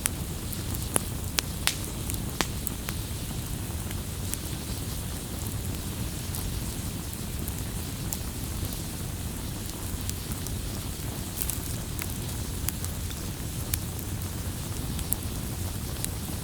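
Campfire burning with a steady low rush and irregular sharp pops and snaps, a few close together in the first few seconds and scattered after.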